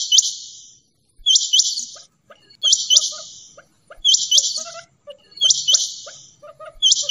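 Quail calling over and over, one harsh, high call about every second and a half, each made of two quick rising notes, with softer short chirps between the calls.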